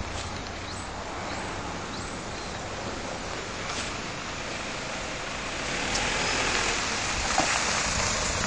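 Steady rushing outdoor background noise that swells louder about six seconds in, with a few faint knocks.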